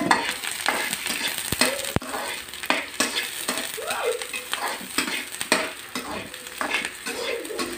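Chopped garlic and onion sizzling in hot oil in a pan, stirred so that a utensil scrapes and knocks against the pan again and again over the steady sizzle.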